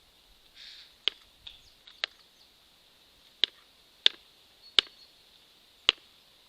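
Six sharp, irregularly spaced knocks from birds working at a squirrel feeder, with a brief rustle just before the first.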